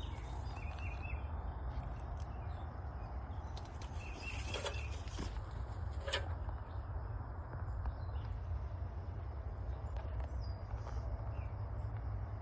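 Outdoor woodland ambience dominated by a steady low wind rumble on the microphone, with a few faint bird chirps about a second in and again around four and a half seconds, and two sharp clicks around five and six seconds in.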